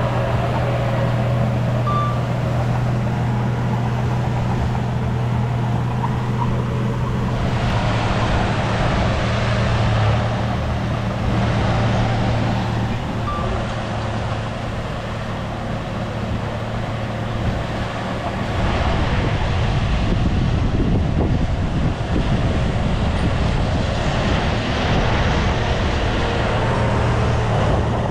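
Bulldozer's diesel engine running steadily under load, with a rougher, noisier working sound joining it about a quarter of the way in and again past the middle.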